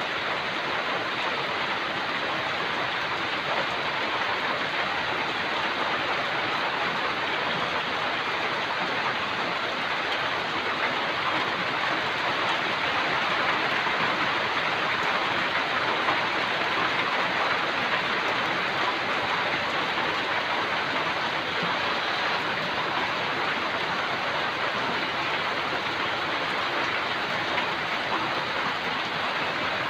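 Steady rain falling on grass and banana leaves, an even hiss with no breaks.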